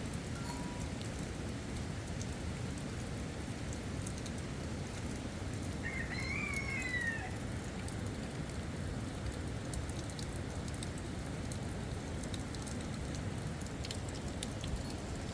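Rain falling steadily, with scattered fine drop ticks. One short, high call bends up and down about six seconds in.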